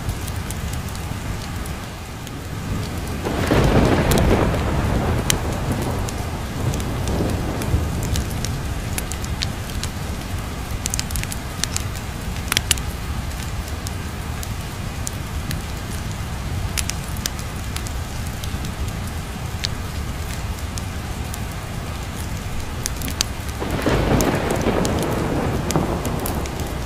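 Steady rain with two long rolls of thunder, one about three seconds in and another near the end. Scattered sharp crackles sound through the rain.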